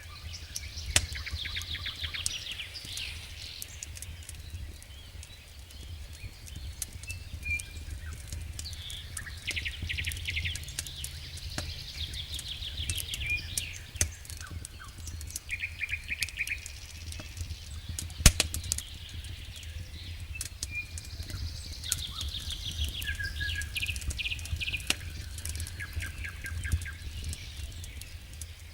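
Wood fire burning in a fireplace: steady low rumble of the flames with scattered crackles and pops, the loudest sharp pop about 18 seconds in.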